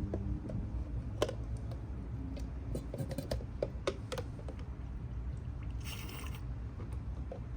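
Scattered light clicks and scrapes of hands and a tool working in a car's brake fluid reservoir as the old fluid is drawn out, with a short hiss about six seconds in and a steady low hum beneath.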